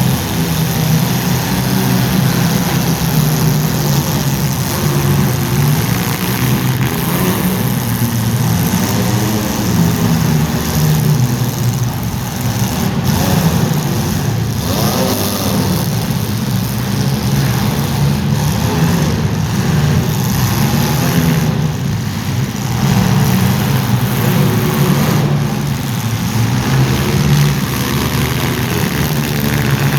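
Engines of welded compact demolition-derby cars running and revving, rising and falling in pitch as the cars push and ram one another.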